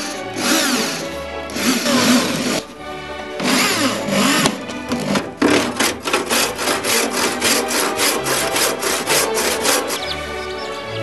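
Background music with a saw cutting wood: three long rasping strokes, then a run of quicker, shorter strokes from about halfway in.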